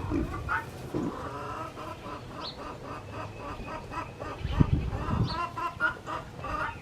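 Chickens clucking in a run of short, repeated calls. A louder low sound comes about two-thirds of the way through.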